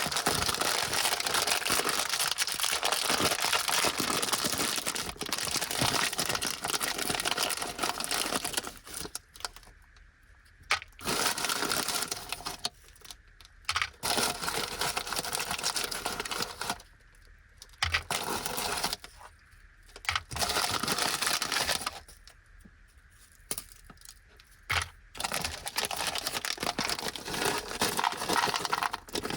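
Plastic snack wrapper of Anpanman toddler biscuits crinkling and rustling as it is handled and opened, continuous at first, then in stretches broken by several short pauses.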